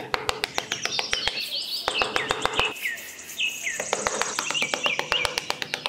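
Small birds chirping in short, repeated calls, over a rapid, even ticking of about eight clicks a second.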